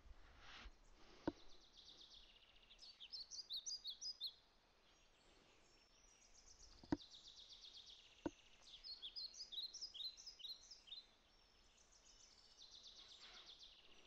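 Faint bird chirping in the background, in two runs of quick high chirps, the first about three seconds in and the second around nine to eleven seconds. A few soft clicks stand out, the sharpest about seven seconds in.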